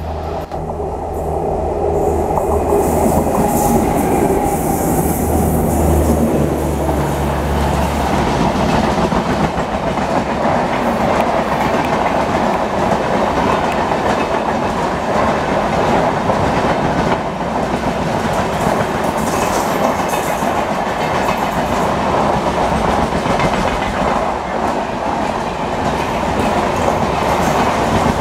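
WAG-7 electric locomotive passing close with a steady low hum, followed by a long rake of passenger coaches rolling by, their wheels clattering over the rail joints. The hum fades after about eight seconds.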